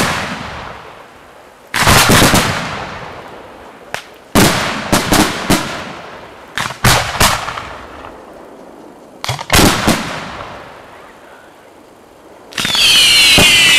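Large aerial firework shells going off close by: a run of loud, sharp bangs, single and in quick clusters, each with a long echoing tail. Near the end a loud continuous rushing noise with several falling whistles starts.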